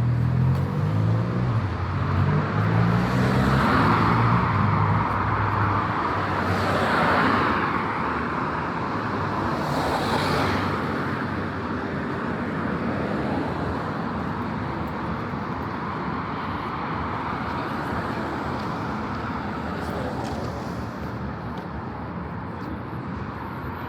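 City street traffic: cars passing by one after another in the first half, each swelling and fading, then a steadier background of traffic.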